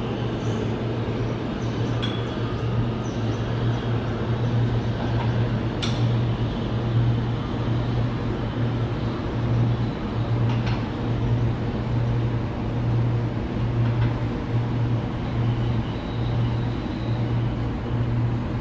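New York City subway train in the station: a steady low hum that pulses roughly once a second over a wash of rail noise, with a few faint metallic clinks.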